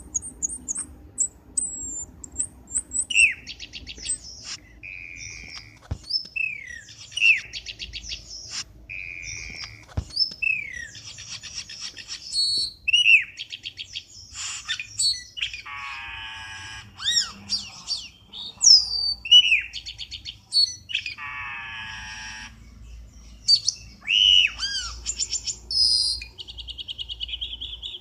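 Cucak keling birds calling in a quick, varied run of sharp chirps, short slurred whistles and harsh raspy notes, one after another with hardly a pause. A lure-call recording used by bird trappers to draw the species in.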